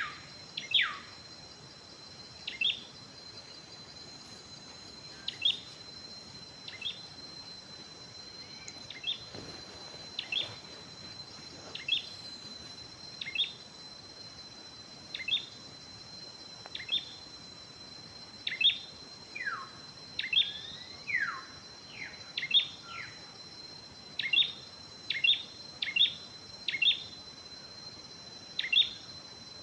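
A forest bird calling over and over with short, sharply falling notes, one every second or two and coming quicker near the end, with a few longer falling whistles in the middle. A steady high-pitched insect drone runs underneath.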